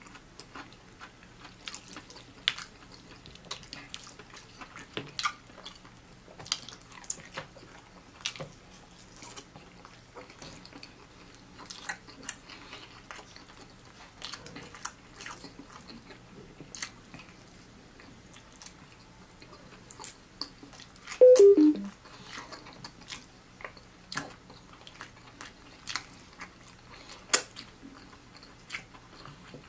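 Close-up mouth sounds of a man eating fried chicken: chewing, with many small clicks and smacks. About two-thirds of the way through there is one brief louder sound that falls in pitch.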